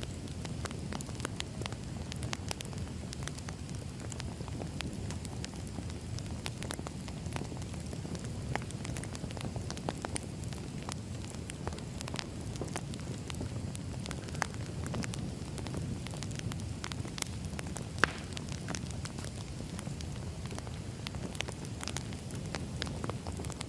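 Wood fire burning, with a steady low rumble and irregular crackles and pops throughout; one louder pop about eighteen seconds in.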